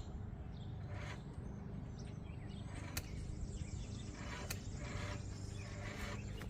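Small electric RC rock crawler picking its way down a steep obstacle: faint scrapes of its tyres and chassis on the course, with three sharp clicks about a second and a half apart, over a steady low background rumble.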